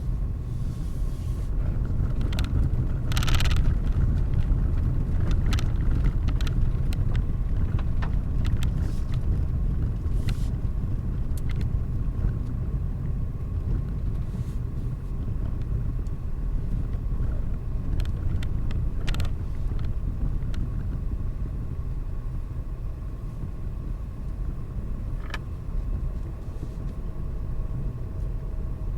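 Car driving along a road: a steady low rumble of engine and tyres, with a faint steady whine and scattered light clicks and knocks, the strongest about three seconds in.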